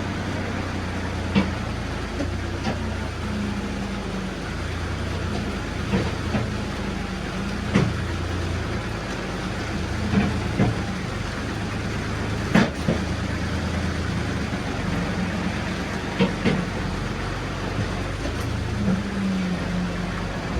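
A vehicle engine running steadily at a low pitch, with occasional sharp knocks and rattles.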